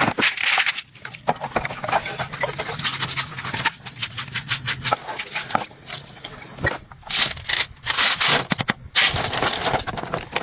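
A run of irregular clicks and knocks, with a low hum in the first half and stretches of scraping or hissing noise in the last few seconds.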